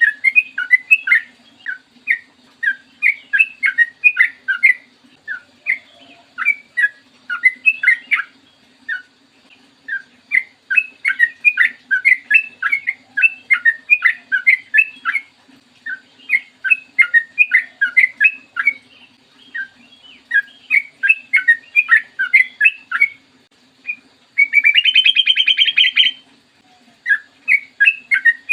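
Yellow-vented bulbul (trucukan) singing long runs of quick, bubbling chattering notes, broken by short pauses. Near the end comes one loud, buzzy rattle lasting about a second and a half. A faint steady low hum sits underneath.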